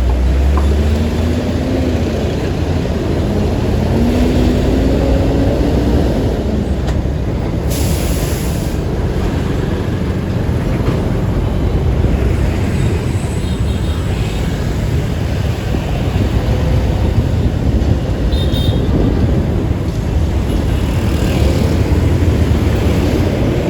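Steady motor-vehicle and road-traffic noise, with an engine tone rising and falling in pitch over the first few seconds and a short hiss about eight seconds in.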